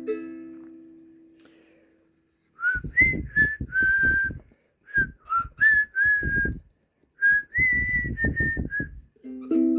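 A whistled tune in three short phrases of clear, steady notes with small slides between them, starting a few seconds in after a plucked-string chord has died away.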